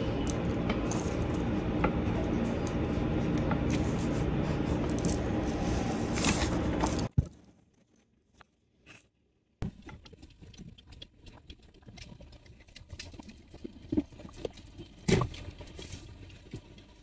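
Light clicks and scrapes of the plastic parts of a Momme Hush wearable breast pump being handled, over a steady background hum. The hum cuts off suddenly about seven seconds in; after a short near-silence the clicks and rubbing go on more quietly.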